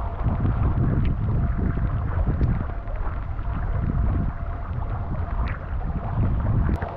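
Wind buffeting the microphone in an uneven low rumble, with a faint steady hum above it and a few light ticks. The rumble drops away suddenly near the end.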